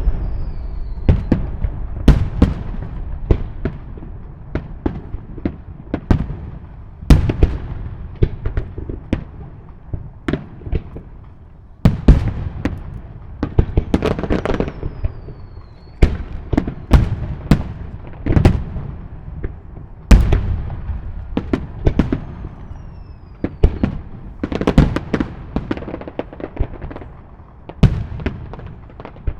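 Fireworks display: aerial shells bursting in quick succession, loud bangs every second or two with crackling between them, and a few faint falling whistles.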